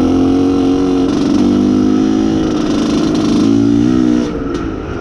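IZh Planeta Sport motorcycle's single-cylinder two-stroke engine running under way while it is being run in, its pitch rising and falling slightly with the throttle. It eases off about four seconds in.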